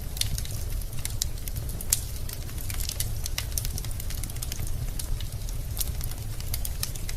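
Wood fire burning in a fireplace: a steady low rumble of the flames with frequent irregular crackles and pops of the burning logs, one louder pop about two seconds in.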